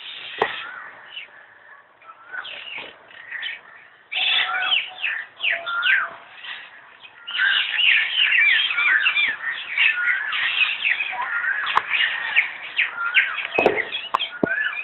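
Many birds chirping and calling at once, a dense chatter of short overlapping chirps. It grows louder about four seconds in and again about seven seconds in, with a few sharp knocks among the calls.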